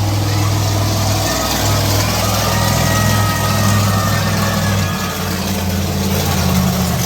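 Monster truck engine running at low revs, a steady deep drone whose pitch steps up and down a few times, about a second in and again near five seconds.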